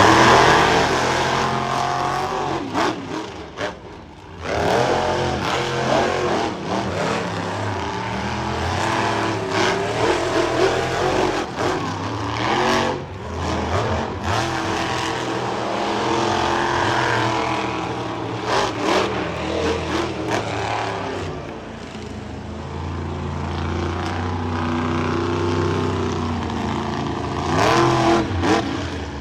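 Monster truck engines revving and running hard during a race, the pitch climbing and falling again and again as the throttle is worked.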